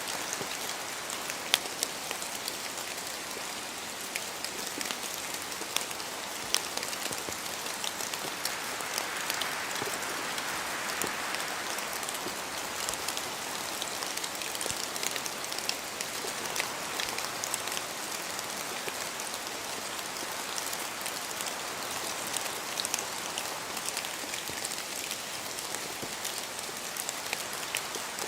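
Steady rain falling in a spruce forest, with many separate drops pattering and ticking close by and wind through the trees swelling and easing.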